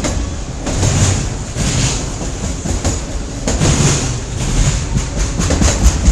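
Freight train rolling past, steel wheels clicking over the rail joints in an uneven rhythm over a steady rumble of the cars.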